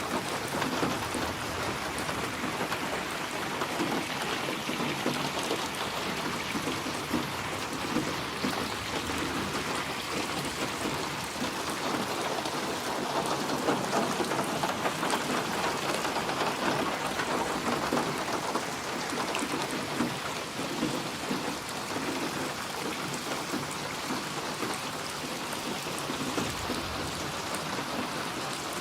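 Steady rain falling on surfaces, with low rumbles of thunder swelling beneath it now and then.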